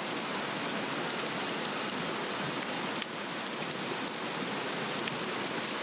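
Swedish torch, a slotted cedar log, burning hard: a steady rush of flames with a few sharp crackles, one of them about three seconds in.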